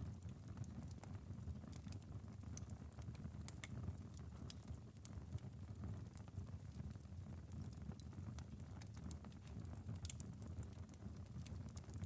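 Wood fire crackling, with irregular sharp pops over a low steady rumble, mixed with light rain pattering on a window. A couple of louder pops come about ten seconds in.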